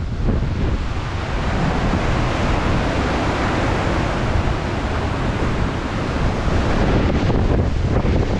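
Storm surf from a hurricane breaking on the beach, with strong wind buffeting the microphone: a loud, steady rush of noise with a deep rumble underneath.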